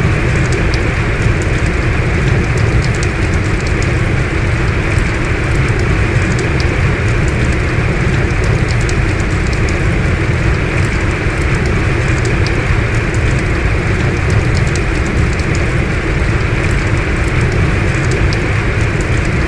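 Heavy rain falling steadily: a dense, even wash of noise with scattered sharp ticks of single drops.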